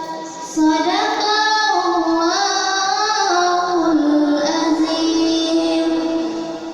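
A young girl's voice reciting the Qur'an in melodic tilawah style: long held notes with ornamented turns of pitch, resuming after a short breath about half a second in.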